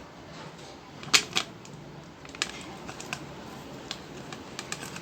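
Scattered sharp clicks and knocks of hard objects being handled and set down, with a loud pair of knocks about a second in and lighter taps after.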